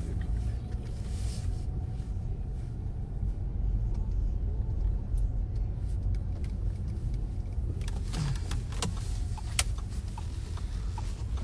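Steady low rumble of a car heard from inside the cabin. In the last few seconds there are several sharp clicks and rustles.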